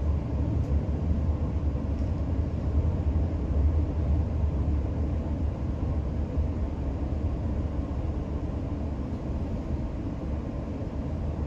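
Steady low rumble of a moving passenger train heard from inside the carriage: wheels and running noise on the track. It eases slightly near the end.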